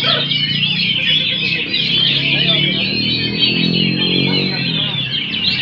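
Many caged songbirds singing at once in a songbird contest: a dense, continuous tangle of rapid overlapping chirps and trills, with a low hum underneath. A thin, high, steady whistle-like tone sounds for about two seconds midway.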